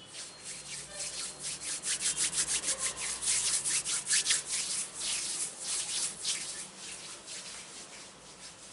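Quick repeated rubbing strokes close to the microphone, several a second, building up to the loudest in the middle and fading toward the end.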